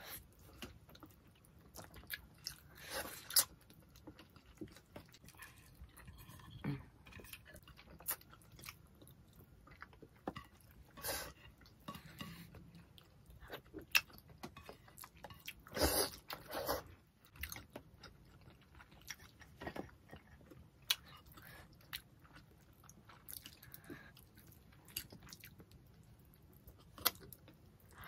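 Close-miked chewing and eating of tilapia in coconut-milk sauce, eaten by hand: mouth noises with scattered short, sharp smacks and clicks, and a denser, louder run of them about sixteen seconds in.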